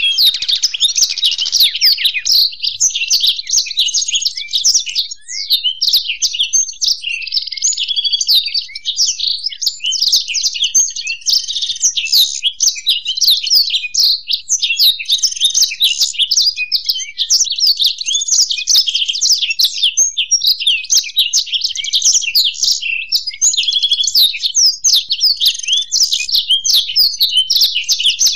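Black-throated canary (blackthroat) and European goldfinch singing together in a continuous fast, twittering song of rapid chirps, trills and short whistled notes, with no pauses.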